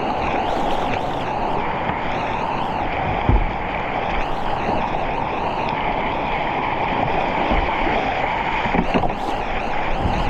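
Rushing whitewater around a kayak on a river rapid, a dense steady wash of water with intermittent splashes, and one short dull thump a little over three seconds in.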